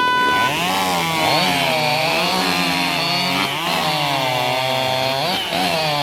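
Two-stroke racing chainsaw at full throttle cutting through a log, its engine pitch sagging under load in the wood and climbing again several times. A short electronic beep sounds at the very start, just before the saw comes up to speed.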